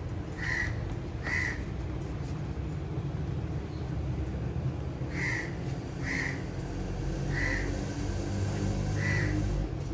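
Alexandrine parakeets giving short, single calls, six in all at uneven intervals, over a steady low background rumble.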